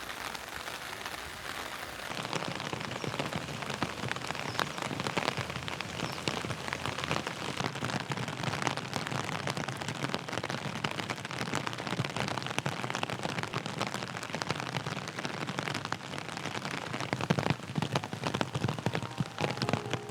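Steady rain falling, with many separate drops ticking against the steady hiss; it grows a little louder about two seconds in.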